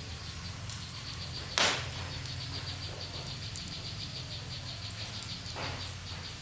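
Wood logs burning in a fireplace, crackling: a fast, fine crackle over a low steady rumble, with one loud sharp pop about a second and a half in and a softer one near the end.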